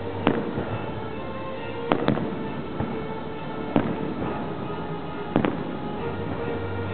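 Fireworks display, with shells going off in sharp bangs about every one and a half seconds, about five in all, over steady background music.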